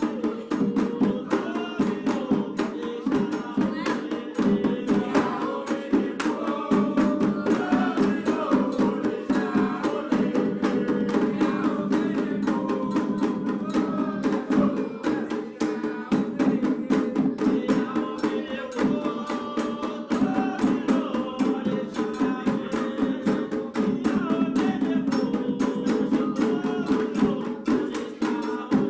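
Atabaque hand drums playing a fast, steady rhythm, with voices singing a chant over them: Candomblé music for the orixá Oxum.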